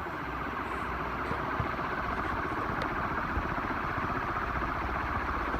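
56-inch Dayton stamped-steel industrial ceiling fan running on high speed: a steady rush of air from its blades, with a low rumble underneath, growing a little louder.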